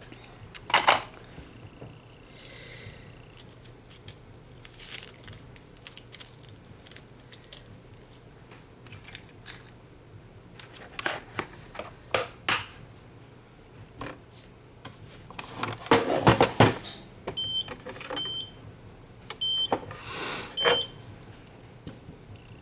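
Small clicks, taps and clatter from handling manicure tools and nail foil, louder about two-thirds of the way through. Near the end come four short, high electronic beeps in two pairs.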